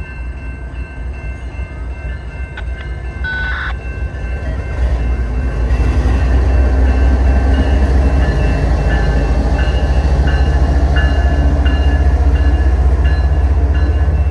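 CN diesel locomotives rumbling past, the deep engine sound growing louder about five seconds in and then holding steady. A faint high ding repeats about twice a second over it.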